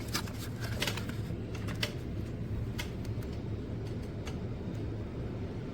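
Plastic spring clip of a portable mini fan being handled and clamped onto a chair: a run of clicks and knocks in the first two seconds, then a few more, over a steady low hum.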